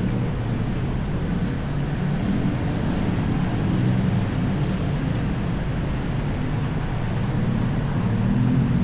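City street traffic with a steady low hum of vehicle engines, and one engine rising in pitch near the end as it speeds up.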